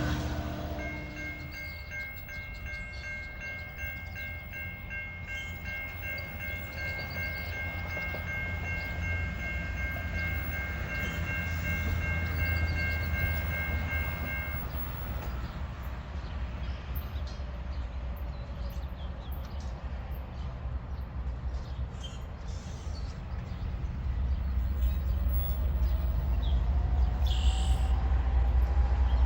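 Railroad train running with a steady low rumble that grows louder near the end. For about the first half a steady high ringing of several pitches sounds together, then stops.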